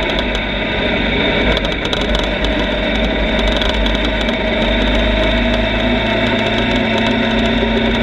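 Motorcycle engine running steadily at a fairly constant speed, with only slight changes in pitch.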